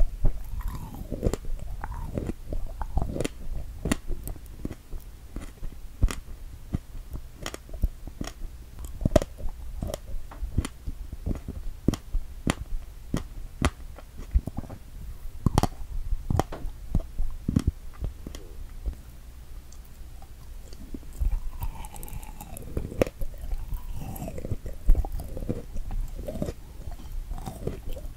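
Close-miked chewing of a strawberry decorated with whipped cream: wet, irregular mouth clicks and soft crunches as the fruit is bitten and chewed.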